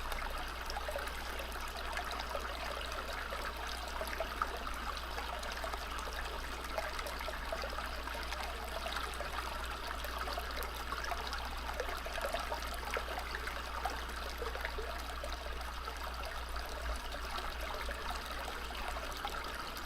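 Steady babbling of a stream or brook, a nature-sounds background track.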